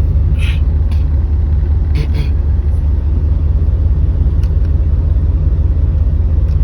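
Chevrolet Corvette's Tuned Port Injection V8 idling steadily, a low rumble heard from inside the cabin, with the AC blower running. A few brief rustles come through about half a second in and again around two seconds in.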